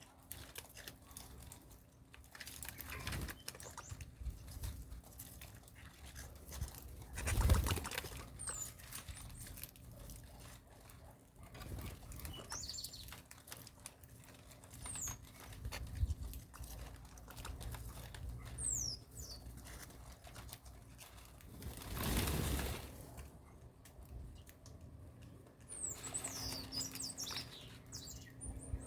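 Small birds giving short, high, falling chirps every few seconds, amid rustling and pattering. There are two louder thumps of movement, about seven seconds in and about twenty-two seconds in.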